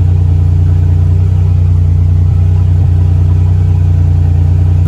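Buick Regal's turbocharged 3.8-litre V6 idling steadily, heard from inside the cabin, running on a newly fitted LS1 mass airflow sensor.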